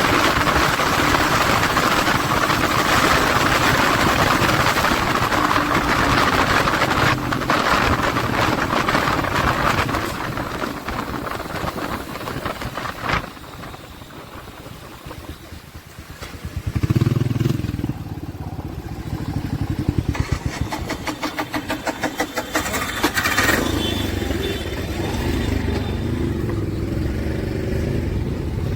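Motorcycle engine running with heavy wind noise, easing off about halfway through. About seventeen seconds in an engine revs up, then runs with a rapid, even pulsing exhaust beat that settles near the end.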